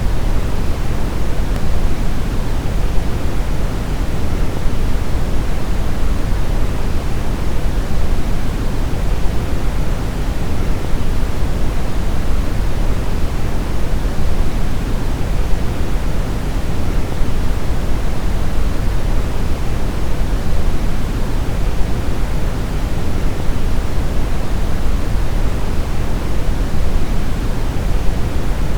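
Steady brown noise: an even, deep rushing hiss, strongest in the bass and thinning toward the highs, with no change in level or character.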